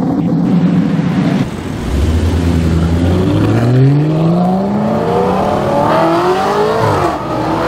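Audi RS5's V8 accelerating hard, its note climbing steadily for about five seconds, then dropping sharply near the end. Before it, for about the first second and a half, another car's engine runs at a steady pitch.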